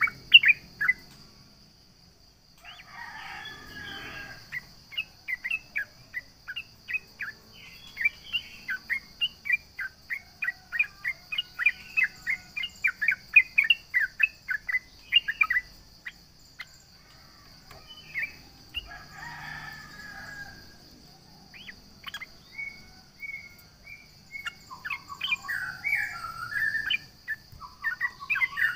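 Yellow-vented bulbul (cucak trucuk) singing: quick runs of short chirping notes, about three a second, broken twice by harsher, noisier chattering passages. A steady high hiss runs underneath.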